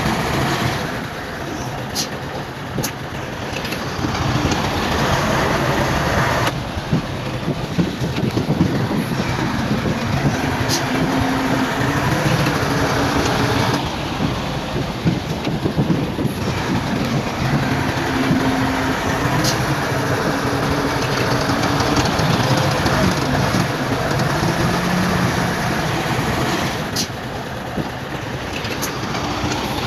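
Bulldozer's diesel engine running under load, its pitch rising and falling as it works, with a few sharp metallic clicks from the machine.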